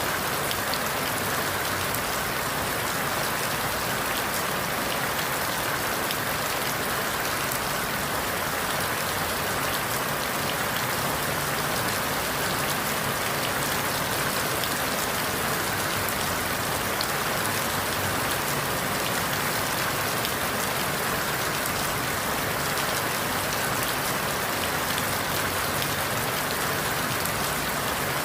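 Steady rain falling through forest leaves, an even hiss with scattered drop patter.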